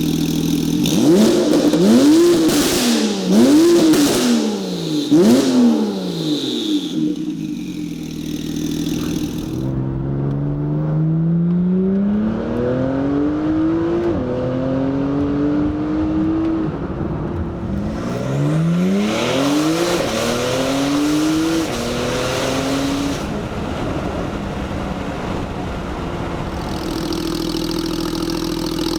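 Porsche 991.2 Carrera's 3.0-litre twin-turbo flat-six breathing through Soul Performance Competition link pipes (catalytic converters bypassed) and the factory valved sport exhaust muffler. It idles, gives three quick throttle blips, then accelerates with a rising pitch, dropping at a gear change and climbing again, and settles back to a steady drone near the end.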